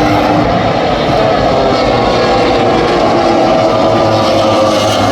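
MotoGP racing motorcycle engines running at high revs, their note climbing slowly.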